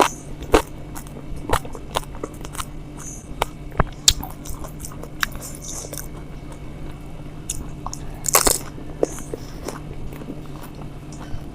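Crisp, hollow pani puri shells being bitten and crunched, with chewing between bites, close to the microphone; the loudest crunch comes about eight seconds in.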